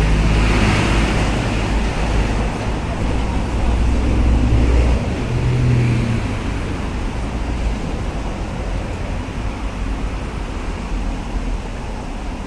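Vehicle driving on a road: a steady low rumble of engine and tyres with road noise over it, easing off slightly about halfway through.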